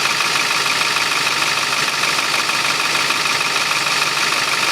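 Ford 7.3-litre Power Stroke turbo diesel V8 in a 2002 F550 idling steadily.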